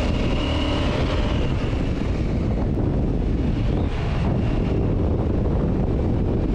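KTM motorcycle being ridden: steady engine and road noise under heavy wind buffeting on the microphone.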